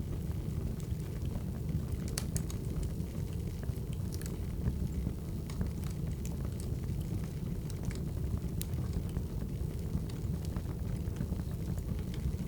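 Wood fire crackling: a steady low rush with scattered sharp pops and snaps, the loudest about 2 and 8.5 seconds in.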